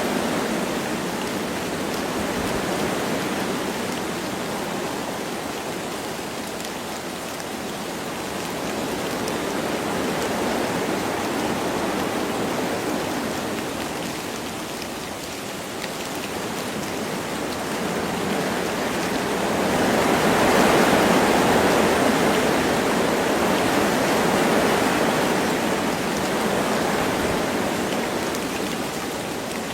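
Wind blowing through forest trees with light rain falling, as a steady rushing noise that rises and falls in slow gusts; the strongest gust swells about two-thirds of the way through.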